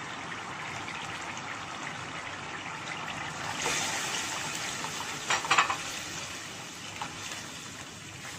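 Chicken and oil sizzling in a pan as yogurt is added and stirred in. The sizzle swells about three and a half seconds in, and a spoon knocks against the pan a couple of times a little past the middle.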